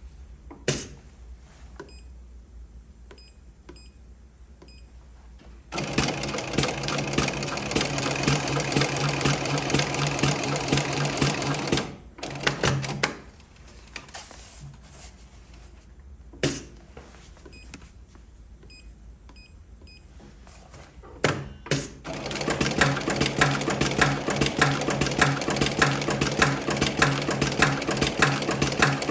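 Electronic pattern post-bed sewing machine stitching a single-needle pattern in fast, even runs: it runs from about six seconds in to about twelve, stops, and starts again a little past twenty-two seconds. Quiet stretches lie between, marked by single sharp clicks.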